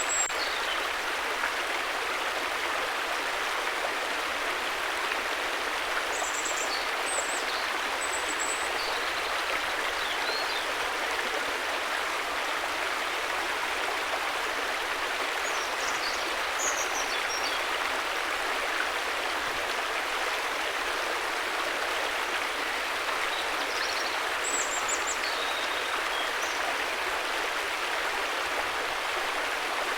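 River water flowing and splashing in a steady, even rush, with a few faint high chirps now and then.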